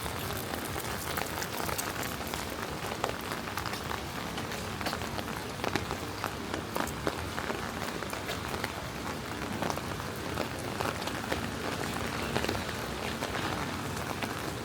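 Steady rain falling and splashing on hard surfaces, with many sharp drop ticks close by.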